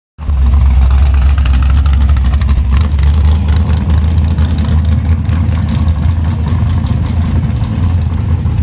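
Engine of a straight-axle gasser car running loudly at a steady idle, a low rumble that cuts in abruptly at the start.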